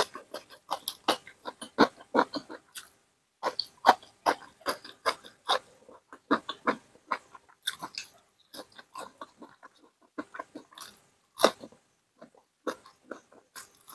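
Close-miked chewing with many irregular wet lip smacks and mouth clicks, mixed with sharp breaths drawn and blown through pursed lips against the burn of a hot chilli.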